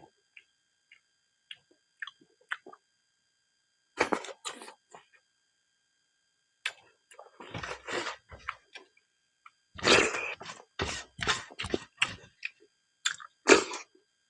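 Close-up eating sounds: cooked silkworm pupae being chewed, with wet smacks and crunches coming in irregular clusters between quiet spells.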